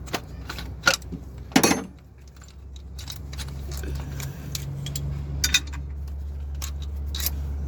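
Metal clinking and clicking as steel camshaft bearing caps and their bolts are lifted off a diesel cylinder head and set down, a handful of separate sharp clinks. A steady low hum runs underneath and grows louder from about two seconds in.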